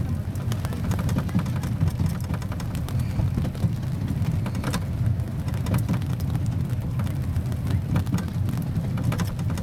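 A small park train running, heard from aboard: a steady low rumble with constant light rattling and clicking.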